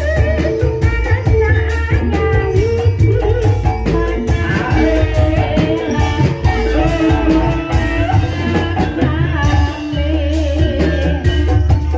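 Live gending ebeg accompaniment for a Banyumasan hobby-horse dance: a singer's wavering melody over drums and tuned percussion, with a steady deep bass.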